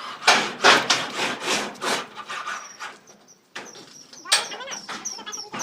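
Hand saw cutting with quick back-and-forth strokes, about two or three a second, stopping briefly a little past the middle before starting again.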